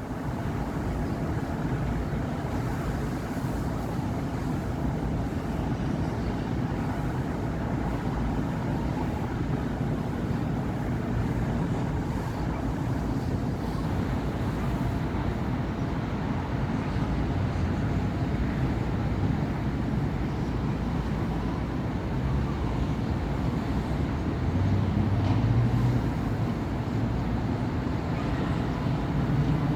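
Steady city traffic on a busy avenue: cars and buses passing in a continuous low rumble, swelling a little as a vehicle goes by near the end.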